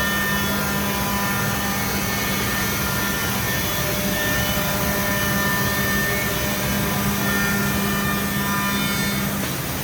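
HOMAG Optimat BAZ 211 CNC working center running: a steady whine of several tones over a broad rush, which stops shortly before the end.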